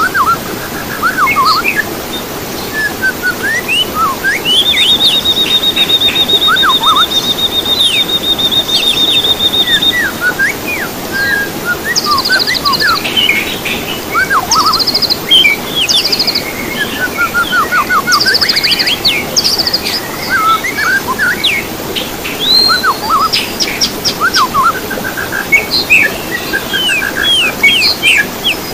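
Several songbirds singing together, a dense mix of chirps, rising and falling whistles and rapid trills, with one long even trill lasting about five seconds that starts about five seconds in, over a steady background hiss. It is a bird-song recording of the kind played to caged songbirds to prompt them to sing.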